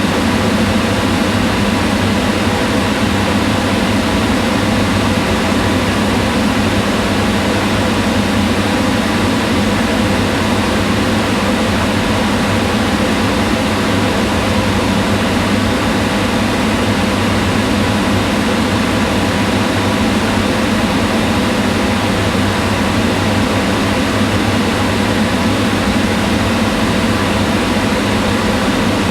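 Kitchen range hood exhaust fan running steadily: an even, unchanging whir of rushing air and motor hum, strongest in the low register.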